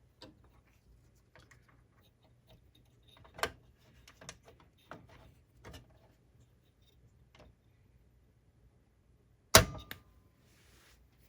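Small clicks and plastic knocks of the laser sled motor holder and its gear mechanism being handled and fitted back into a laserdisc player, with one much louder sharp snap-like click about nine and a half seconds in.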